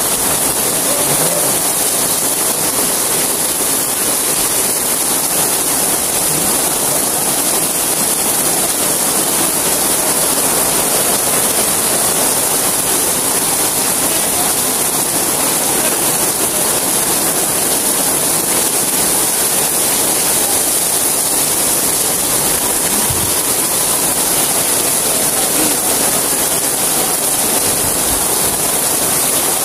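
Heavy rain pouring down on the street and the market's canvas stall awnings: a steady, dense hiss that does not let up.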